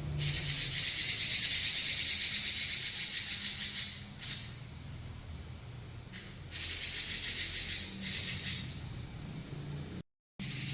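Pekin robin (red-billed leiothrix) singing a long, very fast buzzy rolling trill for about four seconds, then, after a pause, two shorter trills.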